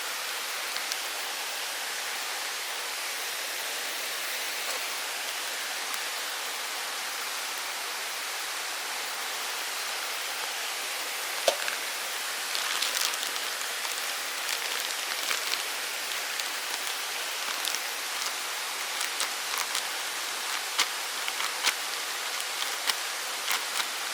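Steady rushing of a forest stream, with scattered sharp clicks and crackles from about halfway on.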